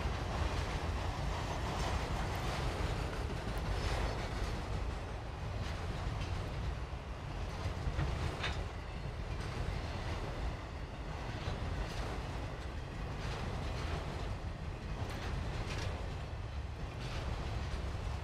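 Freight train of enclosed autorack cars rolling past: a steady rumble of wheels on rail, with occasional clicks as wheels cross rail joints.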